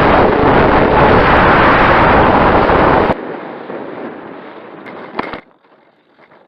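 Strong wind buffeting the microphone, loud and rumbling, cutting off abruptly about three seconds in. A much fainter wind noise follows and dies away, with a brief click near the end.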